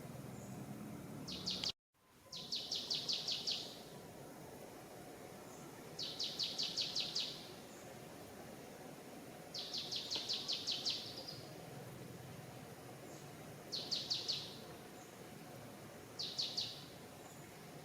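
A bird calling in short, fast pulsed trills, six times, a few seconds apart, over steady forest background noise. The sound cuts out completely for a moment just under two seconds in.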